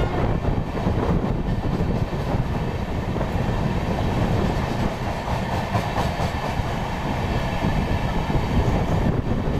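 Indian Railways high-capacity parcel vans rolling past close by: a steady rumble of steel wheels on the track.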